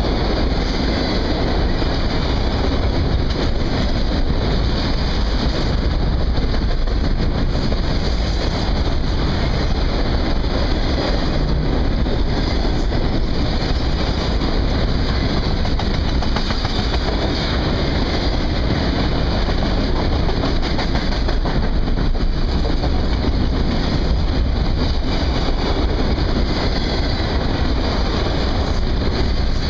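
Long freight train of enclosed autorack cars rolling past close by: steady wheel-on-rail noise and rumble from the passing cars.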